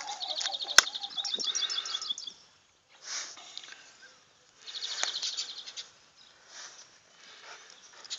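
Small birds chirping in rapid high trills in bursts, while a dog snuffles and digs with its nose in loose garden soil. There is one sharp click just under a second in.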